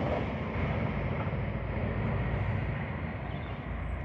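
A train running past and away along the line, a steady rumble of wheels on rails that slowly fades as it recedes.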